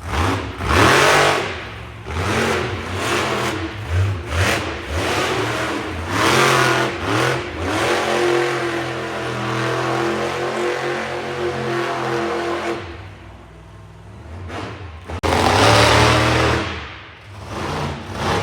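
Monster truck engine revving hard in repeated surges, then held at a steady pitch for a few seconds. After a brief lull it opens up again in a loud burst.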